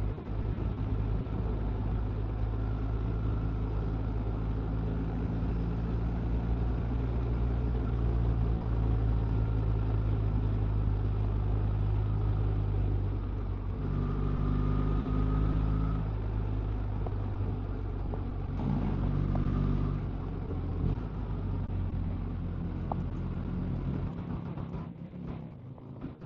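Motorcycle engine running steadily at road speed, its pitch shifting about halfway through and again a few seconds later with changes in throttle, and easing off near the end.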